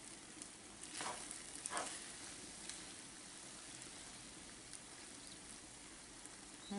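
Sweet corn frying in margarine in a skillet: a faint, steady sizzle, with a spoon stirring through it twice about a second in.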